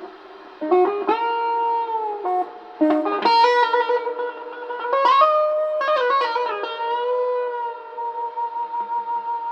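Guitar played through effects: plucked notes that slide and bend in pitch and ring on, struck in small clusters. In the last couple of seconds a held note pulses in a steady wobble.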